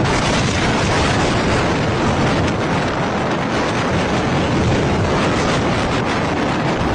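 Fast-moving storm wind blasting across the microphone: a loud, steady, dense rushing rumble.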